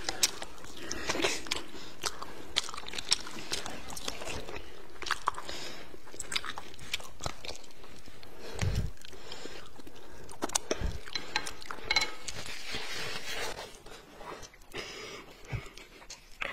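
A person biting and chewing food, with irregular crisp crunching clicks.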